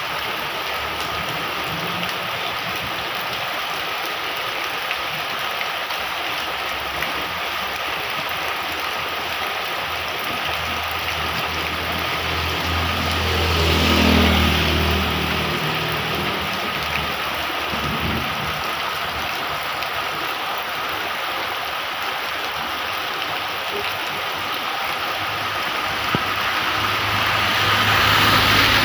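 Steady heavy rain falling. About halfway through, a motor vehicle passes by, its engine swelling and then fading. Near the end another vehicle approaches.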